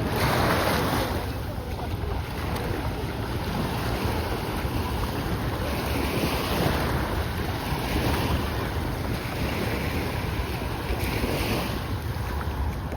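Sea waves breaking and washing up the shore, swelling every few seconds, with wind rumbling on the microphone.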